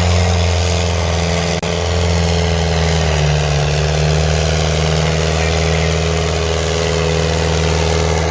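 Diesel tractor engine running hard under heavy load, a steady deep drone with a momentary break about one and a half seconds in.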